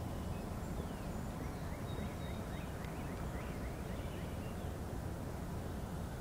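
A bird calling in a quick run of about eight short, falling chirps, starting about a second and a half in, with a few scattered chirps around it. Under it runs a steady low rumble.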